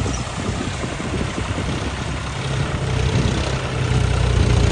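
Tractor diesel engine running, a steady low drone that grows louder in the last second or two.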